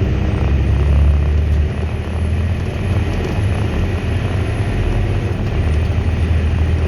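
Volvo A25D articulated dump truck's diesel engine droning steadily under load, heard inside the cab with its vibration. It swells briefly about a second in, then eases slightly.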